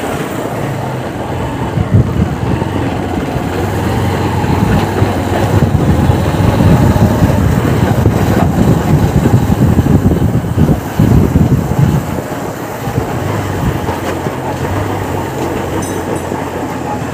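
Honda Unicorn motorcycle's single-cylinder engine running in gear while ridden, growing louder through the middle with a brief drop, carrying the loud gear-and-bearing noise that comes only when the bike is in gear and moving. The mechanic suspects a broken clutch bearing or a broken bearing inside the engine.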